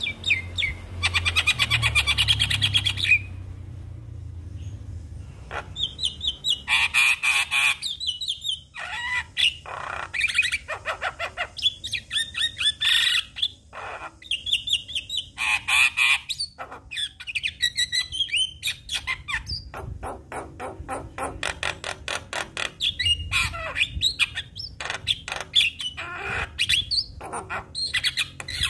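Javan myna (jalak kebo) singing. Its song is a continuous run of harsh chatters, rapid rattles and squawks mixed with short whistled notes, and a loud fast rattle comes about a second in.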